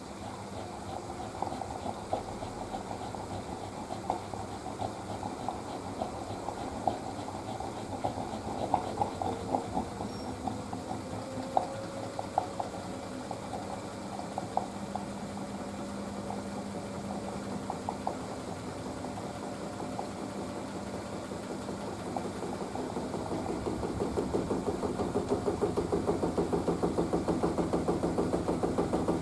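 Panasonic washing machine running, its drum motor humming with scattered light clicks. About three-quarters of the way through it grows louder into a fast, even pulsing hum as the drum speeds up for the spin.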